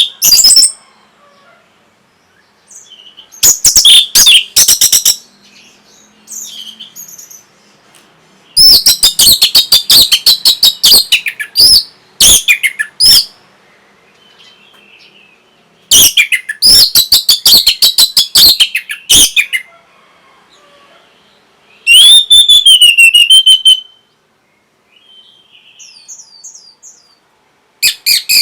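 Orange-headed thrush singing loud, fast, high-pitched phrases of one to four seconds each, separated by short pauses.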